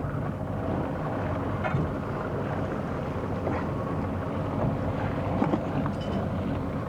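Boat's engine running steadily with a low hum, with wind buffeting the microphone and water noise.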